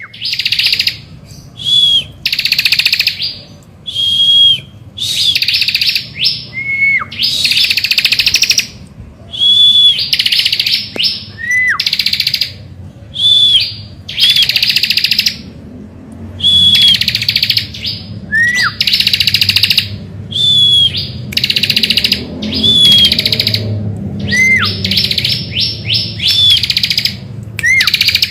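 Ciblek (prinia) singing vigorously: repeated short bursts of fast, buzzy high-pitched trilling, each about half a second to a second long, alternating with clear high whistled notes and quick down-slurred notes. A faint low hum lies underneath.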